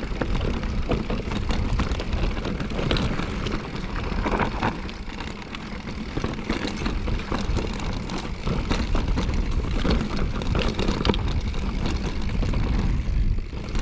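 Mountain bike descending a rough, rocky trail: wind rushing over the microphone and the bike rattling and clattering over rocks and roots.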